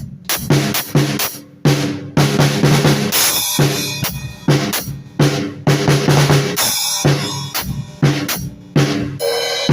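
Drum kit played freely, just banging: bass drum and snare hits at uneven spacing, with cymbal crashes about three seconds in and again around six seconds.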